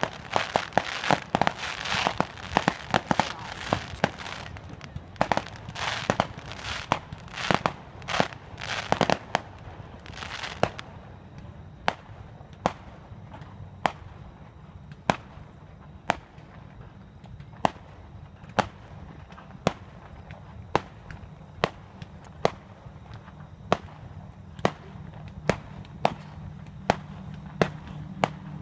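Aerial fireworks bursting in quick succession with dense crackling for roughly the first ten seconds, then thinning to single sharp bangs at about one or two a second.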